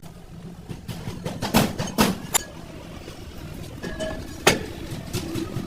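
Several sharp metallic clinks and knocks of tools on truck axle parts over a steady low engine hum.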